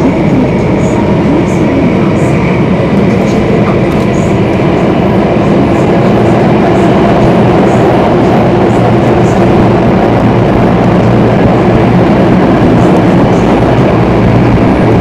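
Singapore MRT Circle Line train running through a tunnel, heard from inside the car: a steady, loud rumble of wheels and traction motors with faint light ticks on top.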